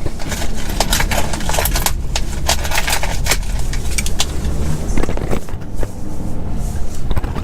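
Car cabin rumble while driving, with a dense run of sharp crackling and clicking in roughly the first half.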